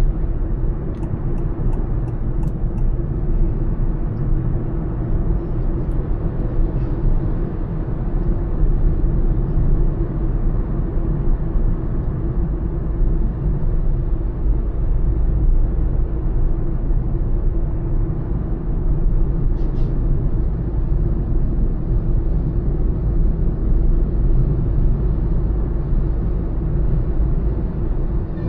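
Honda Elevate SUV cruising at highway speed: steady road and tyre noise over a low rumble, with a few faint ticks about a second or two in.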